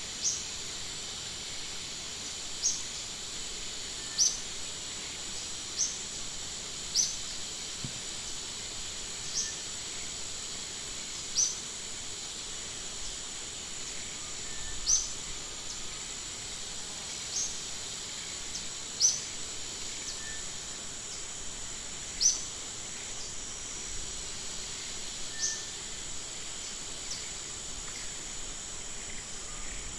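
Outdoor nature ambience: a steady high insect drone, with a bird's short, high, downward-sweeping chirps repeated every one to three seconds.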